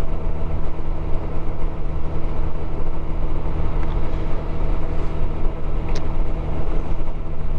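Motorcycle engine running steadily at cruising speed, with wind and road noise. A single short click about six seconds in.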